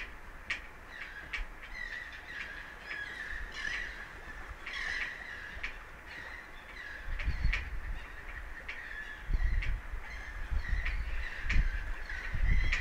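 Birds calling over and over in short repeated notes, with low rumbling bursts about seven seconds in, again around nine to ten seconds, and near the end.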